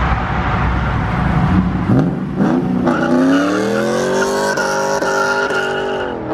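A car engine revving hard as the car accelerates away. It rumbles low at first, then climbs steadily in pitch for about four seconds before dropping sharply near the end.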